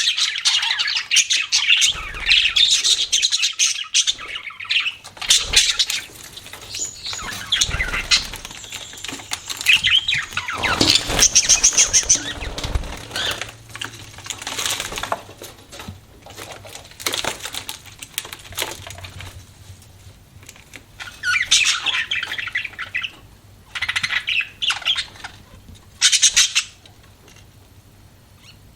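Budgerigars chirping and chattering, thick and continuous for the first half, then in three short bursts in the second half, with scattered sharp clicks among the calls.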